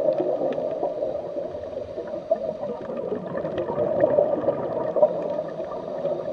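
Underwater ambience: a steady, muffled gurgling and bubbling of water with small scattered ticks.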